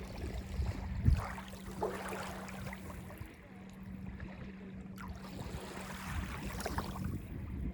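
Small lake waves lapping and washing on a sandy beach, with separate washes about a second in, two seconds in and near the end, over a low rumble. A steady low hum underneath stops about six seconds in.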